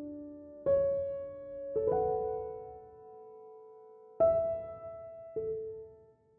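Slow, soft piano music: single notes and small chords struck about a second or more apart, each left to ring and fade.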